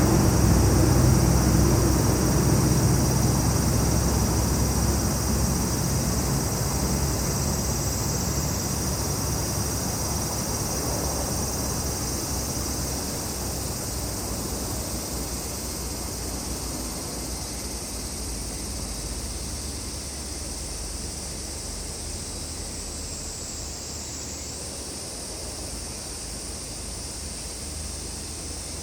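A low engine drone slowly fading away, over a steady high-pitched chorus of summer insects.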